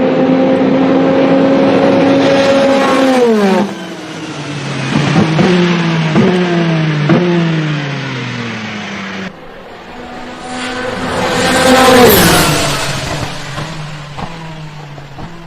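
Peugeot 9X8 hypercar's twin-turbo V6 held at high revs, then dropping in pitch through a run of quick downshifts, each marked by a short jump in revs. After a cut, the car rises to its loudest as it passes by at speed, its pitch falling sharply, then fades away.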